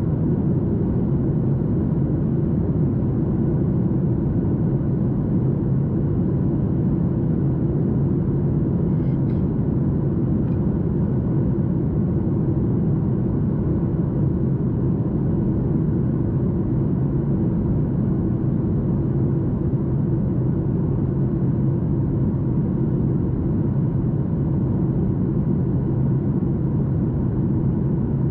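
Steady low rumble of a Boeing 737 MAX 8's CFM LEAP-1B engines and airflow, heard from inside the passenger cabin.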